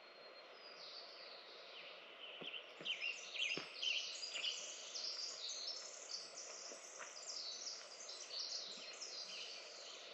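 Several birds chirping and singing together over a steady background hiss, the chirping growing busier from about two and a half seconds in. A few faint knocks are heard under it.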